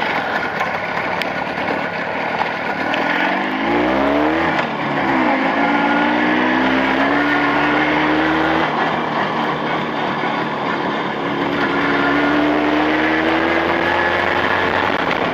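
Motorcycle engine under way, running in on freshly bored Chinese cylinders: its pitch climbs sharply about four seconds in, falls back as it changes gear, runs steady, then climbs slowly again in the second half, with wind noise throughout.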